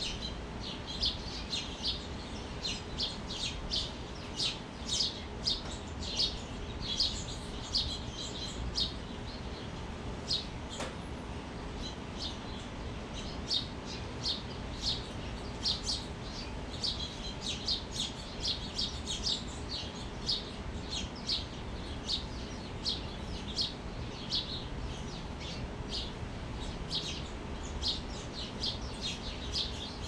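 Small birds chirping, a steady stream of short, high chirps several times a second.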